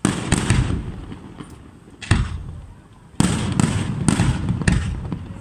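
Aerial fireworks shells bursting in quick volleys: a cluster of bangs at the start, a single bang about two seconds in, then a dense run of bangs and crackles from about three seconds in.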